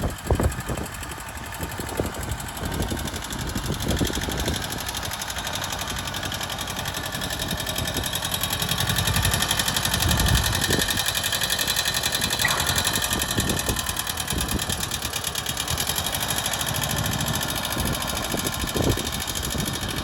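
Kubota B6000E tractor's small two-cylinder diesel engine running steadily, a little louder for a few seconds around the middle.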